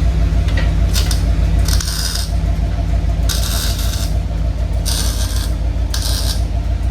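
Car engine idling with a deep, steady rumble through a newly installed exhaust. Several short, sharp hissing or scraping noises come and go over it, about a second apart.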